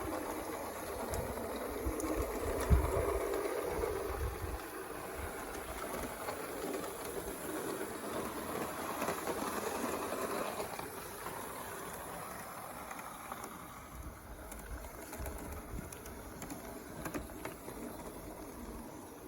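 Small model live-steam locomotive running on a garden railway track, a steady mix of steam exhaust and wheel-on-rail rattle that grows quieter over the second half, with a louder knock about three seconds in.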